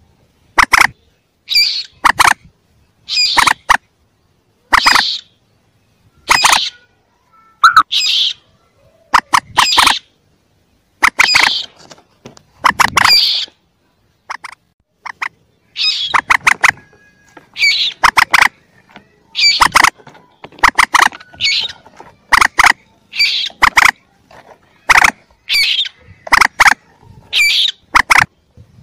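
Common moorhen chick calls: short, sharp squeaky notes, single or in quick clusters of two or three, repeated about every second or so.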